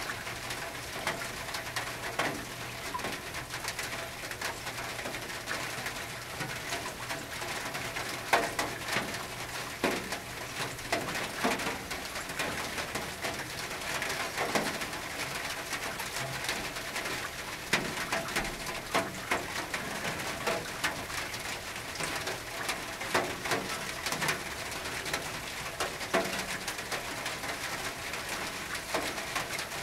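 Rain on a tin roof: a steady patter with louder drops striking the metal irregularly, about every second or two.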